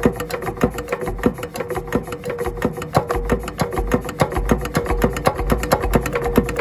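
Andoria S15 single-cylinder diesel engine running steadily, with an even, rapid knocking beat and a steady hum underneath.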